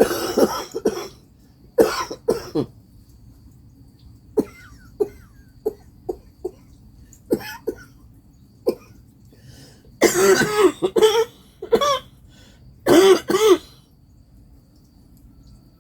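A woman coughing and clearing her throat in several separate fits, the loudest about ten and thirteen seconds in, with short sharp hacks in between. She puts it down to her allergies.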